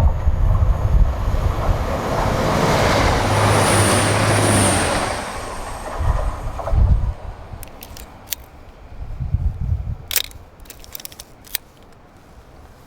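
A train passing by: its running noise swells to a peak about four seconds in, with a brief high squeal at its loudest, then fades away, followed by a few sharp clicks.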